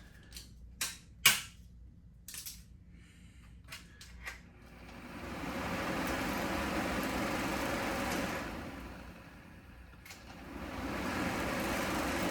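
A few clicks and knocks as loose plastic parts are pulled off a broken box fan, then the fan runs with a steady rush of air that sounds like a vent. The rush dies down and swells again near the end.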